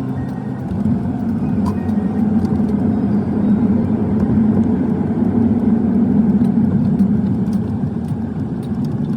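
Steady rumble of road and engine noise from a car on the move, heard from inside the car.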